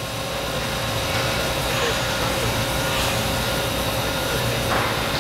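Milltronics VM-24 CNC vertical machining center running a program: a steady mechanical hum with a steady whine over it.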